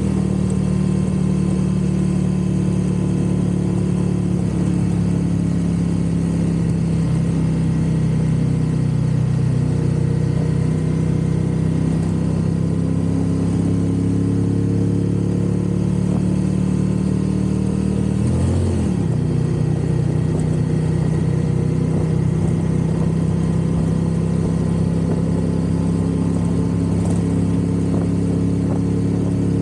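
1982 Honda GL500 Silverwing Interstate's V-twin engine running steadily under way, with a brief swing up and down in pitch about two-thirds of the way through.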